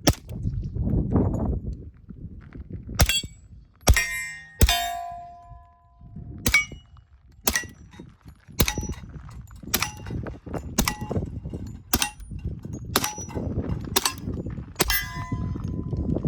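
Shots on steel targets, each hit answered by a ringing clang from the steel plate. There are about thirteen hits: a quick group of four in the first five seconds, one of them ringing out longer, then a steady run of about one hit a second.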